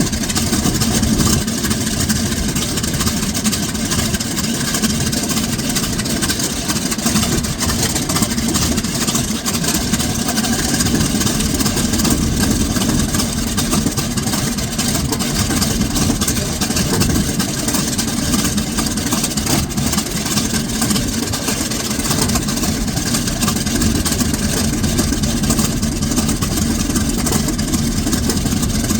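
Vought F4U Corsair's 18-cylinder Pratt & Whitney R-2800 radial engine running steadily during a ground run, at an even, unchanging pitch.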